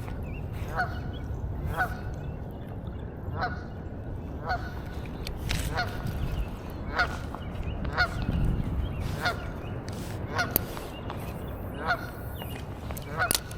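Geese honking: short single honks repeated about once a second, over a steady low background noise.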